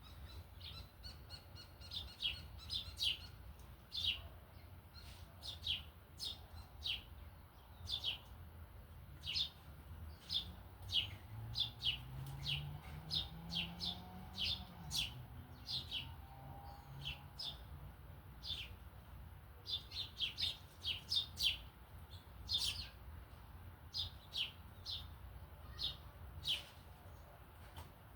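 Small birds chirping: many short, sharp, high chirps, several a second at times, coming in bursts and clusters.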